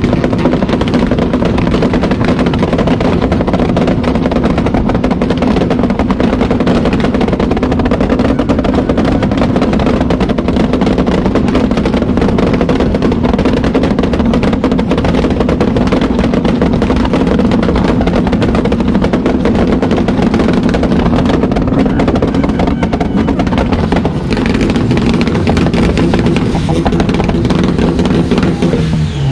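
A car engine held at a steady raised speed, with fast firing pulses and no change in pitch for nearly half a minute; it revs up just before and shifts near the end.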